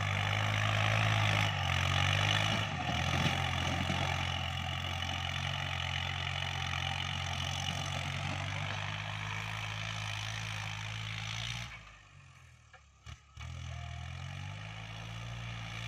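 Kubota L3218 tractor's diesel engine running steadily under load in second gear while driving a 183 cm rotary tiller through dry soil. About twelve seconds in the sound drops away for about two seconds, then returns.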